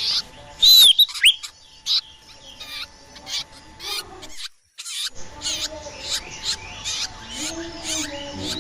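Bird-lure recording of small songbirds chirping: rapid short, high chirps, with a few loud swooping whistles about a second in. A brief silent gap falls about halfway through.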